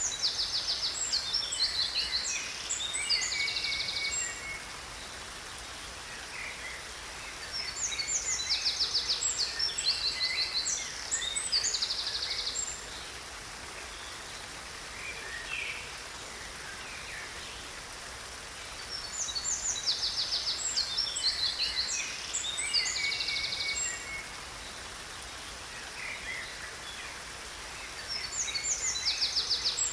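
Songbirds singing in four bouts of fast, high trills and chirps, each lasting four to five seconds and coming about every ten seconds, over the steady rush of a waterfall.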